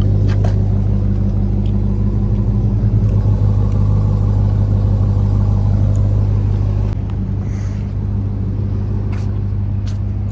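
A motor vehicle's engine running steadily at low revs, a deep even hum that drops a little in level about seven seconds in.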